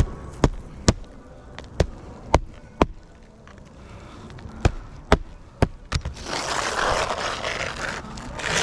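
Roofing work: about nine sharp knocks of a hand tool striking the roof, spaced irregularly over the first six seconds, then a rough scraping, rustling noise for about two seconds.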